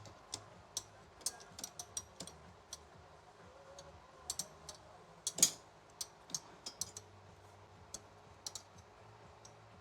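Scattered sharp clicks and light metal ticks from a wrench working the belt tension bolt on a garage door opener rail, coming at irregular intervals. The loudest is about five and a half seconds in.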